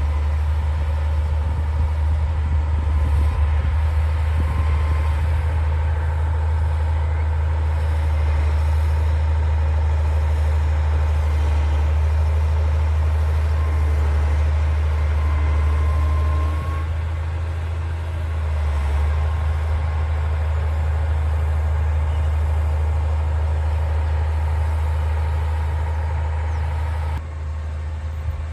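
D60 bulldozer's diesel engine running with a steady low drone. It eases off briefly about two-thirds of the way through and drops in level again near the end.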